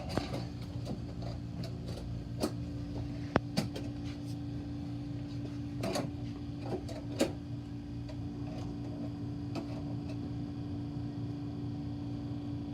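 Steady low machine hum with scattered light clicks and knocks from screws and a metal cover being handled and started in by hand.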